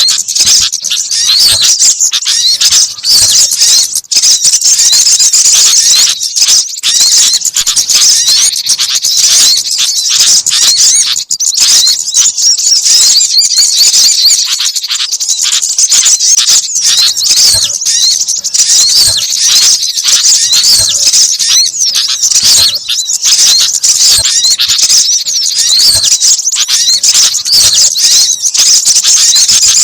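Dense, unbroken chorus of rapid, high-pitched chirps and squeaks from small songbirds: a mixed bird-lure recording of sogon, gelatik, sunbird and kutilang calls.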